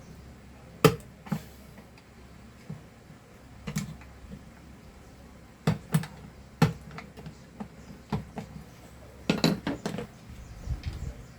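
Sharp metallic clicks and clanks at irregular intervals, with a quick cluster near the end: hand tools knocking against a handheld vacuum's motor parts while a broken, seized bearing is being forced off.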